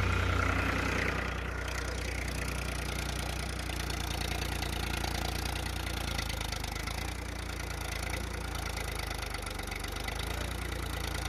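Powertrac Euro 50 tractor's diesel engine idling steadily, a little louder for the first second and then even.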